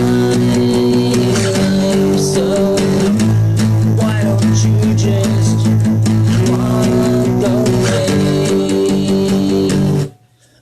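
Guitar and bass guitar playing a steady, loud instrumental passage. The music cuts out abruptly near the end.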